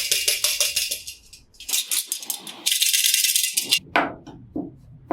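M&M's hard-shelled chocolate candies rattling against a dish in several runs of fast clicking, then a few separate knocks near the end.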